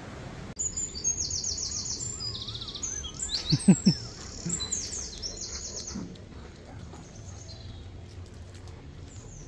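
Songbirds singing in trees, with runs of rapid, high repeated chirps and trills that die away after about six seconds. Two brief louder low sounds come about halfway through.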